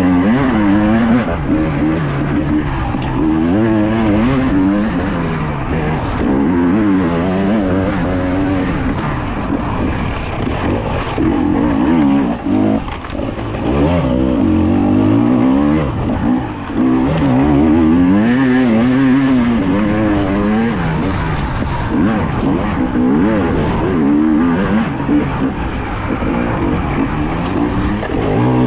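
Two-stroke enduro motorcycle engine heard from on the bike, revving up and down again and again as the throttle is worked over rough trail, with short drops in level when it backs off.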